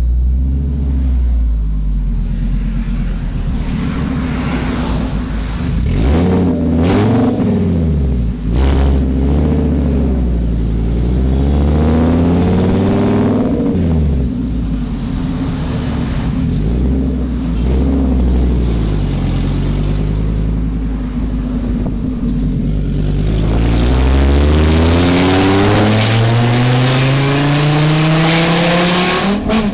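Fiat Marea HLX 2.4's five-cylinder engine running loud with no muffler. It idles at first, is revved up and down several times, then climbs steadily in one long rev to high rpm before dropping back near the end.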